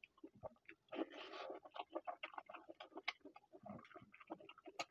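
Close-up mouth sounds of a man eating chicken kosha and rice by hand: a rapid, irregular run of wet chewing smacks and clicks, with one longer, noisier sound about a second in.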